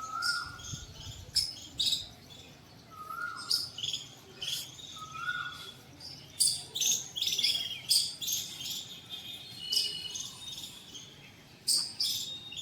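Birds chirping and calling: many quick, sharp high chirps throughout, with three short lower calls that rise and fall in the first half.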